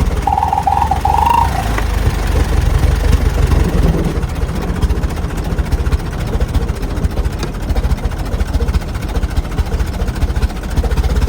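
A 1914 fire truck hot-rodded into a race car, its engine running hard on the move with a rapid, heavy pulsing rumble. A brief tone of about a second sounds near the start.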